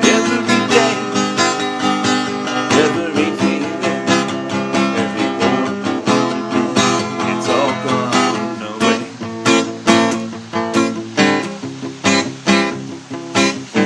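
Acoustic guitar strummed and picked in an instrumental break of a song, with chords ringing on and the strokes coming in regular rhythmic accents in the second half.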